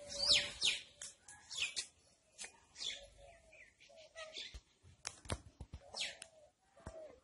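Birds chirping: a string of quick, high chirps that sweep downward in pitch, several a second at first, then more spaced out. A few sharp clicks come in the second half.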